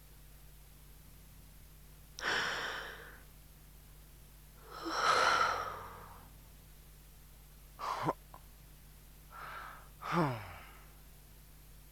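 A person making breathy non-speech vocal sounds, like gasps and sighs: five separate breaths or exhalations, the longest a few seconds in, and the last ending in a falling voiced groan. Tape hiss lies underneath.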